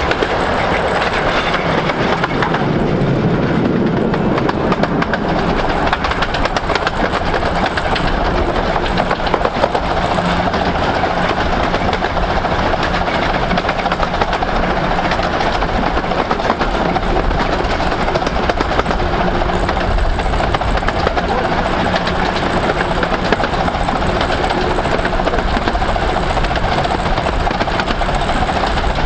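A 15-inch gauge miniature railway train running steadily along the line, a continuous rumble of wheels on rail with clattering over the rail joints.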